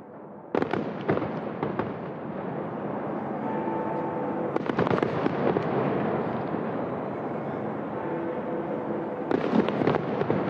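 Fireworks display: a dense barrage of bangs and crackling that starts suddenly about half a second in. It surges again about four and a half seconds in and near the end.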